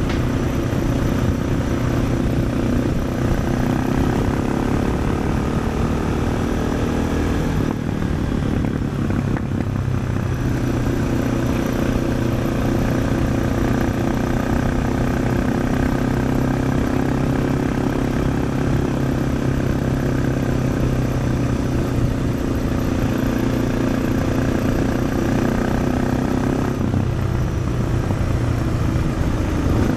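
2004 Suzuki DR650's single-cylinder four-stroke engine running under way through a Dominator aftermarket exhaust, a steady, loud exhaust note. The note drops away briefly about eight seconds in and changes again near the end.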